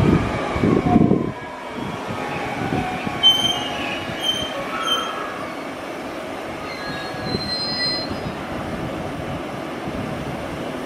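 521 series electric multiple unit braking to a stop at a station, with a few heavy rumbling thuds in the first second. Its brakes or wheels then give short high-pitched squeals several times as it slows.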